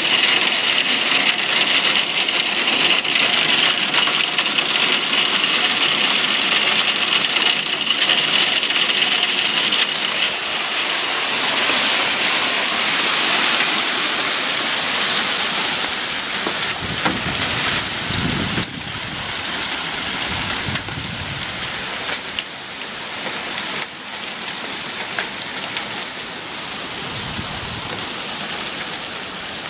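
Hard rain and hail pelting down, a dense steady hiss with scattered sharp ticks of hailstones striking surfaces. The downpour is loudest in the first ten seconds and eases a little after. A low rumble comes around the middle.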